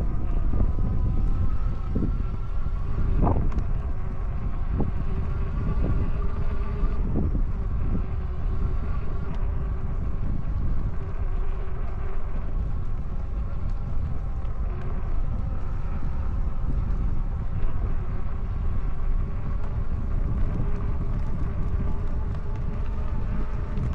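Wind rumbling on the microphone of a moving e-bike, under a steady whine from the bike's electric hub motor. A few short knocks from bumps come in the first seconds.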